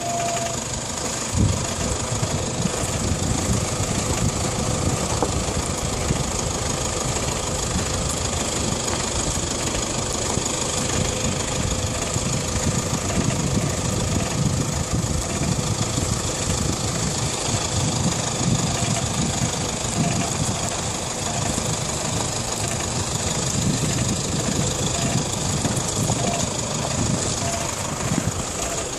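Brake noise from a nearly new Toyota Hilux pickup: a continuous rough, low noise with a single knock about a second and a half in.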